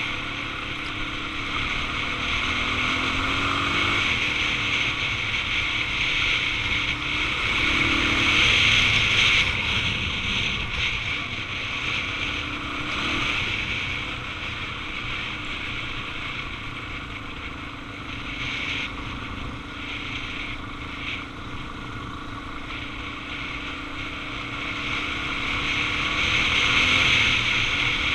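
Suzuki DR-Z400 single-cylinder four-stroke engine running under way, its pitch rising and falling a little with the throttle, under steady wind rush on the microphone.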